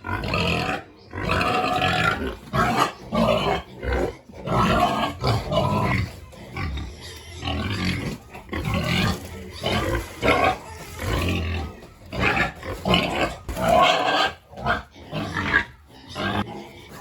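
Several pigs making a busy, irregular run of short, loud, overlapping grunts and squeals.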